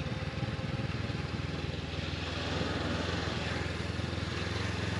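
Honda CB500X motorcycle's parallel-twin engine running at low speed, a steady low rumble that grows slightly louder about halfway through.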